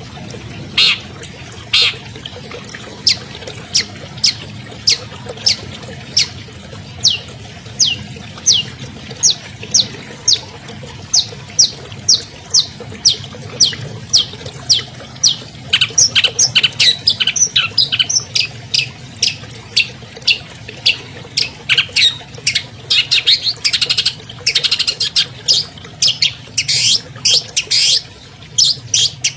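Long-tailed shrike (cendet) singing: a long series of short, sharp notes that sweep downward, about two a second at first, coming faster and denser about halfway through.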